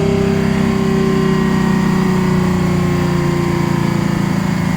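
Concrete truck's heavy diesel engine running at a high fast idle, steady and loud, its pitch slowly easing down.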